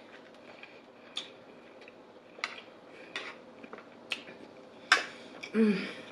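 Close-miked chewing of a big mouthful of beef: a few sharp, wet clicks and smacks from the mouth, the loudest about five seconds in, then a short falling hum of enjoyment near the end.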